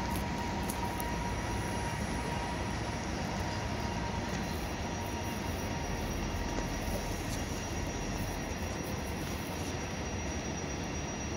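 Electric regional train hauled by an E464 locomotive running past at a distance: a steady rumble of wheels on rails, with a faint high whine.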